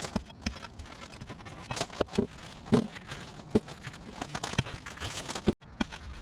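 Uneven series of sharp knocks and clatters from hand work on concrete paving slabs being broken out, with scraping in between.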